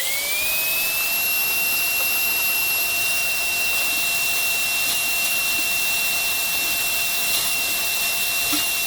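Electric motor spinning up within about half a second, then running with a steady high-pitched whine over a rushing noise. It is switched off right at the end and begins to wind down.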